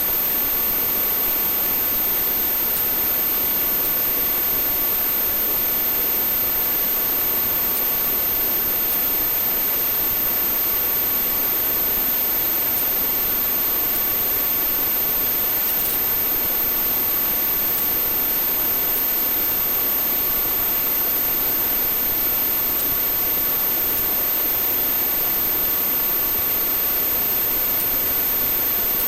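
Police helicopter's turbine and rotor noise heard inside the aircraft on the onboard recording: a steady, even hiss with a constant high-pitched whine.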